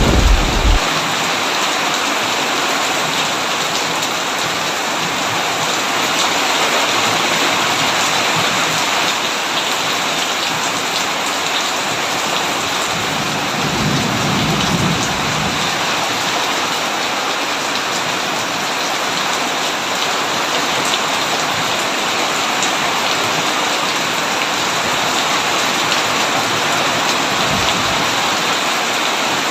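Heavy rain pouring steadily on a tin roof. A thunder rumble dies away in the first second, and a softer low rumble of distant thunder comes about halfway through.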